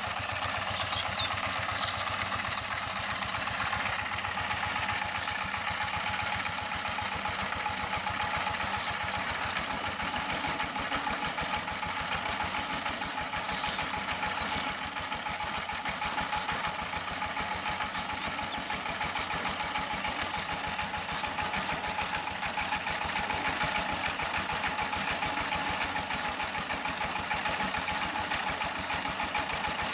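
Diesel power tiller's single-cylinder engine running steadily with a fast, even beat, a steady high whine above it.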